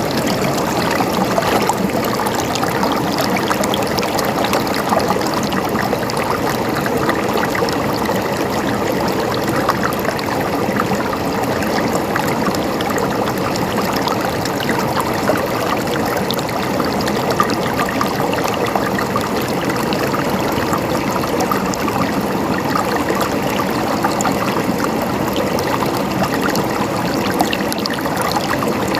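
Running water gurgling steadily, a constant splashing babble with no pause.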